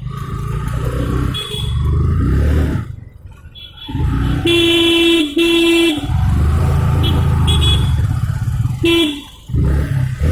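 Motorcycle engine running in road traffic while a vehicle horn honks: two honks of about a second each midway, a short honk near the end, and a few brief higher-pitched toots in between.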